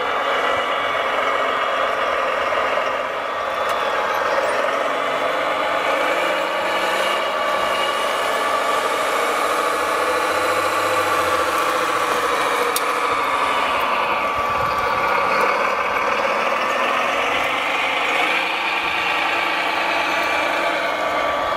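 Radio-controlled model construction machines running, their motors making a layered whine that rises and falls in pitch with speed, dipping low about two-thirds of the way through and then climbing again.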